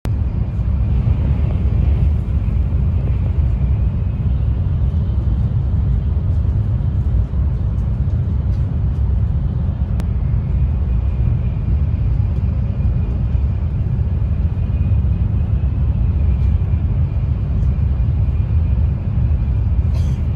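Cabin noise of a high-speed train running at speed: a steady low rumble with a faint high whine over it.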